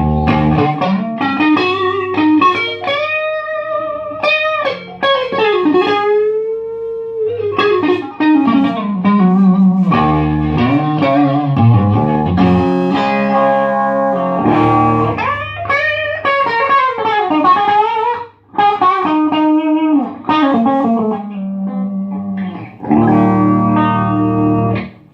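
Electric guitar played loudly through a Marshall MG15 solid-state amp and a 4x12 cabinet: a lead line of sustained and bent notes, with one short break about eighteen seconds in.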